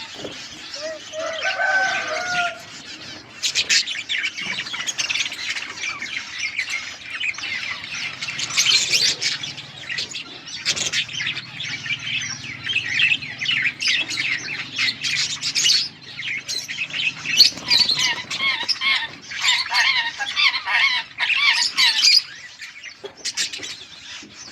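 Budgerigars chattering and warbling, a dense run of quick high chirps and squawks that keeps going, with a few lower whistled notes in the first couple of seconds.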